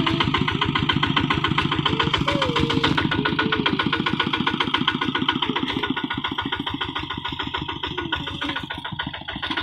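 Kubota RT155 single-cylinder diesel engine on a two-wheel walking tractor running steadily with a fast, even chug of firing strokes, easing off slightly near the end.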